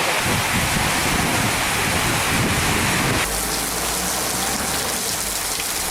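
Steady rain falling, heard as a dense hiss, with an abrupt change in its sound about three seconds in.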